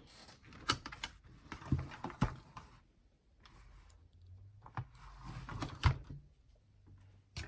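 Scattered small clicks, taps and knocks with soft scraping as the clock radio's casing and inner parts are handled during disassembly.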